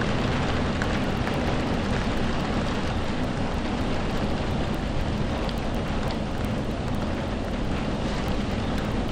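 Steady heavy rain: a dense, even hiss with a deep low rumble underneath and a few faint drop ticks.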